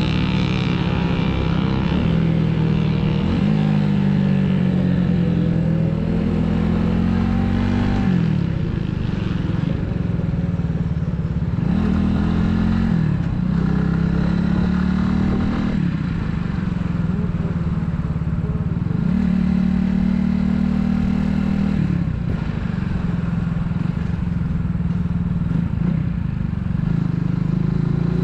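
Italika 250Z motorcycle engine pulling while riding: it revs up and drops back several times, about every three to six seconds, as if working through the gears, over steady road and wind noise.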